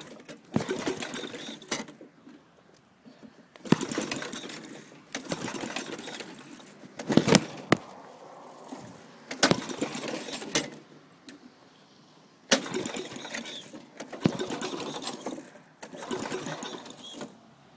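Electric starter cranking a riding lawn tractor's Briggs & Stratton engine in repeated bursts of about a second each, with short pauses between, without the engine catching and running.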